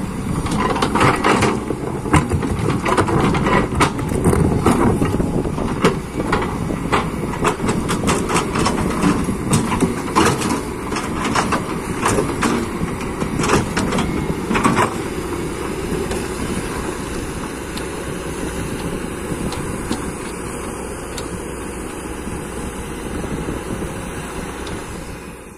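Excavator running under work, with many loud metal clanks and knocks over its engine for the first fifteen seconds or so, then running more steadily with fewer knocks.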